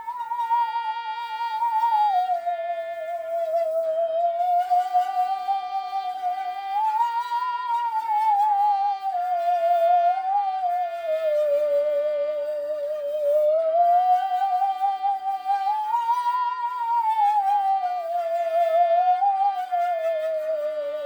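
Musical saw playing a slow melody with a wide, continuous vibrato, sliding smoothly from note to note, over a backing accompaniment of sustained chords.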